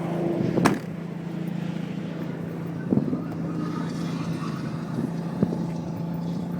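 A 2004 Mazda RX-8's rotary engine idling steadily, with a sharp knock about half a second in and two lighter knocks later.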